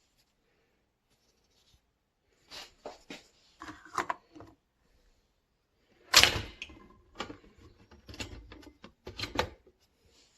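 A series of separate clicks and knocks, the loudest a sharp knock about six seconds in, after a quiet first couple of seconds.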